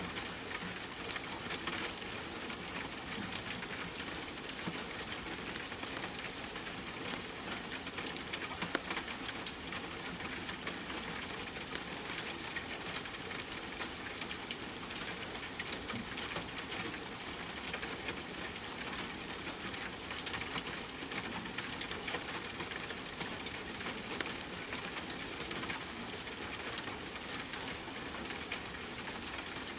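Steady rain mixed with a crackling fireplace: an even hiss sprinkled with many small, sharp pops and ticks that never stop.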